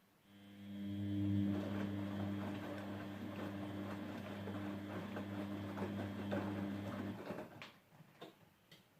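Grundig GWM4762 washing machine's drain pump starting up and running with a steady hum over rough, crackly water noise, then stopping after about seven seconds; a few sharp clicks follow near the end.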